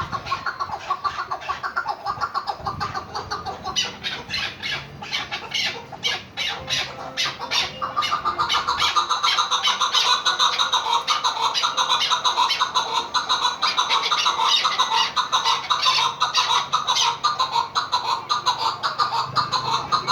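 Chukar partridge calling: a fast, rapid run of repeated chuck notes that grows louder and denser about eight seconds in.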